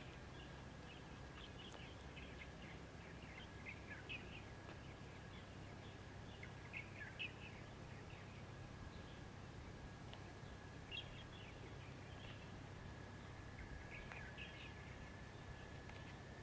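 Faint chirping of small birds, with short scattered calls throughout. Under them run a steady low hum and a thin steady high tone.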